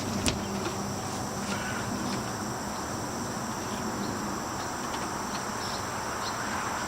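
Steady insect chorus trilling high over a constant background hiss, with a single sharp click just after the start.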